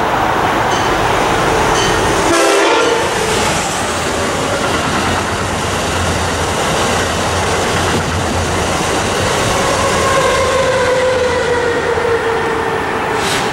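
A train passing close at speed: a loud, steady rush of wheels on rail. Its horn sounds briefly about two and a half seconds in, and near the end a pitched tone slowly falls.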